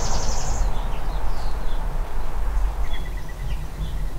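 Nissan 300ZX's freshly resealed VG30DE V6 idling steadily. Birds chirp over it, with a short high trill at the start and a quick run of repeated chirps about three seconds in.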